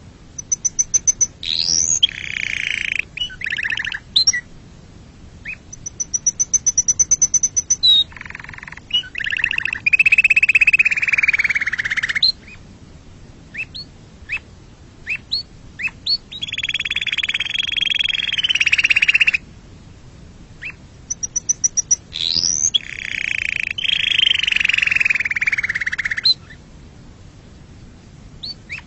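Domestic canary singing in phrases with short pauses between them: fast, high, buzzy trills alternate with long rolling trills of two to three seconds each.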